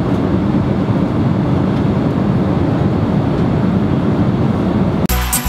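Steady rumble and rush of an airliner cabin in flight: jet engine and airflow noise heard from inside the cabin. Music with a beat cuts in near the end.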